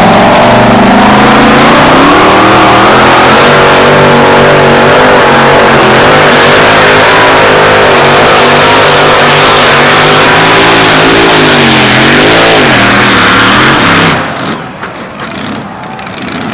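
Pulling truck's engine at full throttle under load, very loud, its pitch wavering up and down as it revs, then dropping off sharply about fourteen seconds in.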